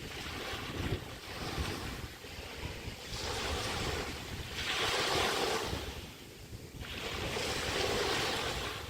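Small waves from the Chesapeake Bay breaking and washing up the beach, coming in swells every two seconds or so, with wind rumbling on the microphone.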